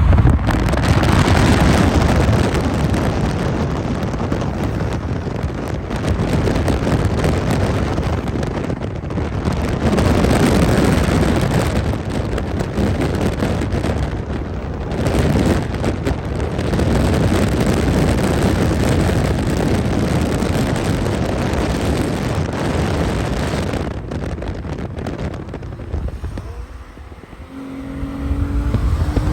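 Car driving at speed: loud, continuous road, engine and wind noise that swells and eases without a break.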